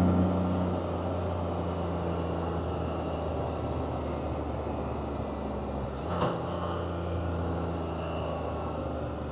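Can-Am Spyder three-wheeled motorcycle engine running steadily while riding, with one sharp click and a brief break in the engine note about six seconds in.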